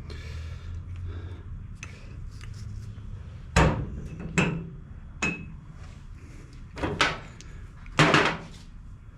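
Hammer striking metal on a riding mower's deck spindle: about five sharp, irregularly spaced blows, each ringing briefly.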